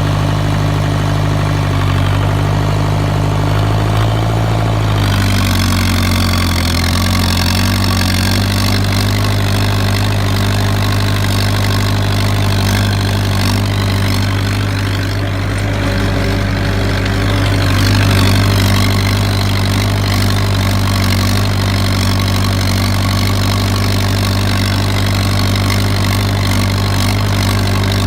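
SACA S432 tractor engine running steadily while ploughing. Its pitch shifts about five seconds in, then holds steady.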